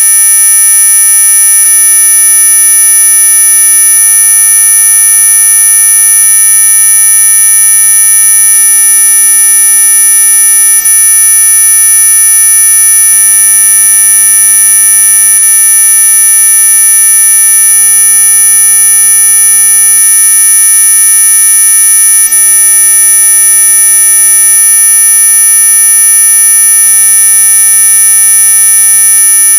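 Synthesized 'ultrasonic' mosquito-repellent tone: a loud, unbroken high-pitched electronic whine of several fixed tones at once, the strongest near the top of hearing, with no rise, fall or break.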